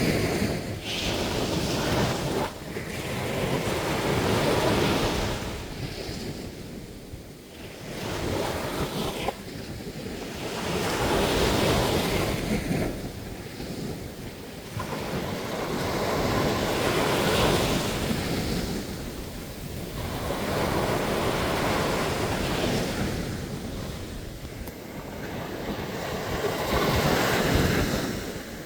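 Sea surf breaking and washing up a sandy bathing beach, the noise of the waves swelling and falling away in slow surges every five to seven seconds.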